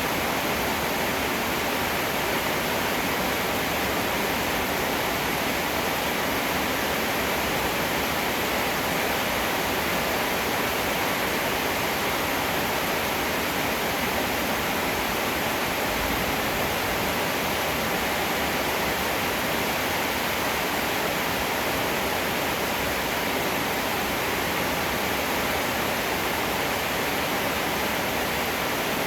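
Heavy rain falling in a steady, even downpour with no thunder.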